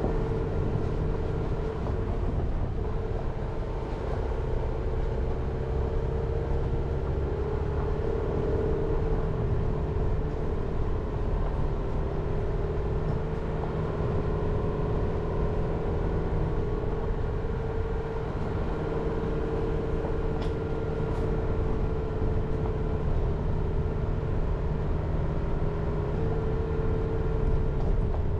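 Jeep Renegade being driven at a steady pace: a constant low engine and road rumble with a steady hum over it.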